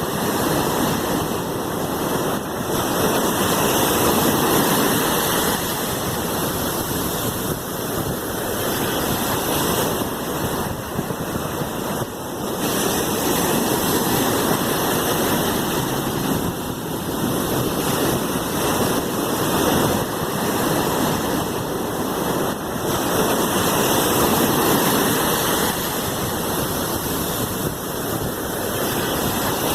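Sea waves washing in: a continuous rushing of surf that swells and eases every few seconds.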